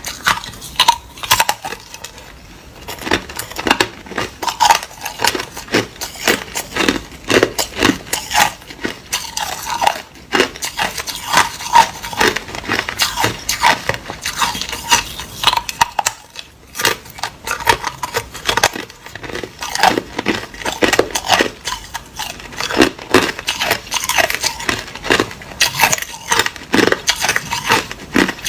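Hard ice being bitten and chewed close to the microphone: rapid, irregular crunches and cracks, with brief lulls a couple of seconds in and about midway.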